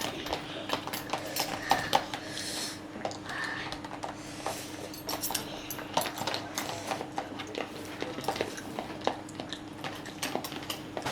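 Eating noises: cutlery clicking and clinking against plates in many short, irregular ticks, over a steady low hum.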